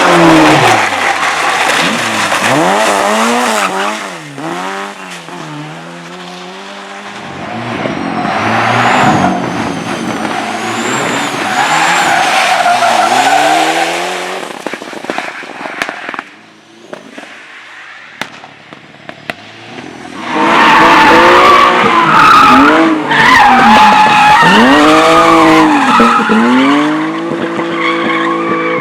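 Race car engines revving hard, their pitch rising and falling again and again, with tyres squealing and skidding. The sound drops away for a few seconds about two-thirds of the way through, then comes back loud near the end with more revving.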